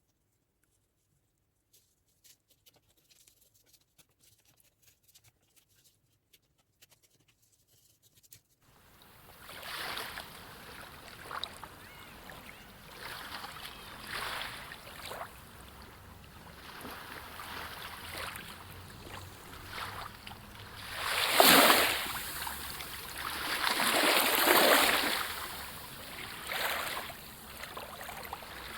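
Faint scattered scratching, then about nine seconds in sea waves start washing in, swelling and falling every few seconds.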